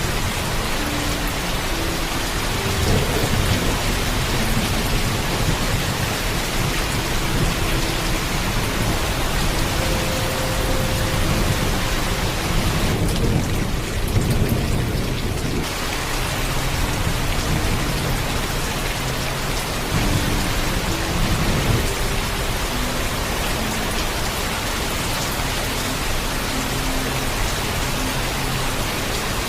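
Heavy rain falling steadily in a dense hiss, with low rolls of thunder. The rumble swells a few seconds in, again around the middle, where it is strongest and the rain hiss briefly thins, and once more about two-thirds through.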